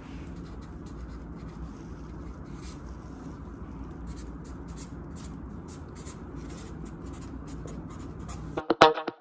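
A Sharpie marker signing, with many quick, short squeaky strokes over a low steady hum. Loud music with a plucked, beat-driven line comes in near the end.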